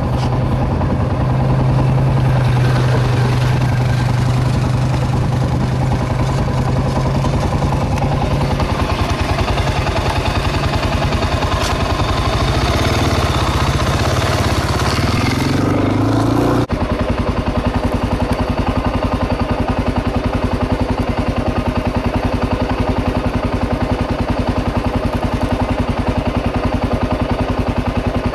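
Motorcycle engine running under way. Its pitch climbs briefly about halfway through, and the sound cuts abruptly to a steady, higher engine note.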